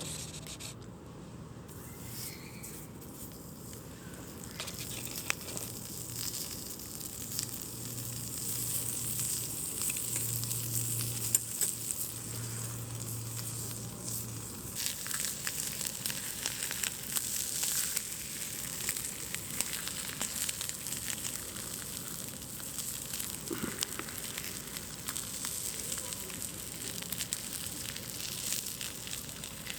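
Wood campfire crackling, with many small sharp pops over a soft hiss. A low steady hum runs underneath through the first half, then stops.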